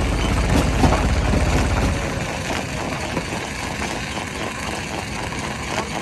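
Heavy machinery engine running at a rock crusher site, with scattered knocks and clatter. A deep low rumble drops away about two seconds in.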